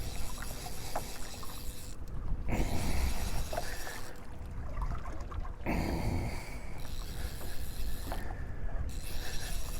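Steady rumbling wind and water noise on a small open fishing boat, with a few faint clicks.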